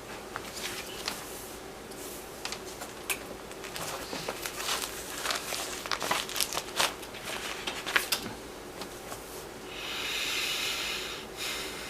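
Handling noise: crinkling and rustling with many scattered clicks, and a brief hiss-like rush about ten seconds in.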